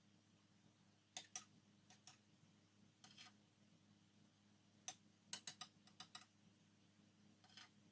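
Faint, irregular light clicks and taps, with a quick cluster of them about five to six seconds in, over a faint steady hum.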